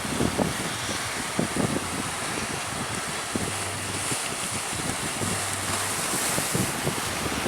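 Strong wind buffeting the microphone in irregular low gusts over a steady rush of sea and waves.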